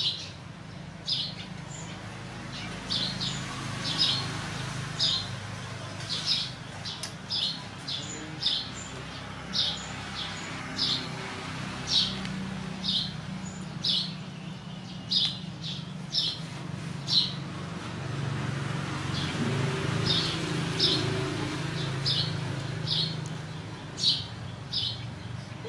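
A bird chirping over and over, short high chirps about once a second, over a steady low background hum.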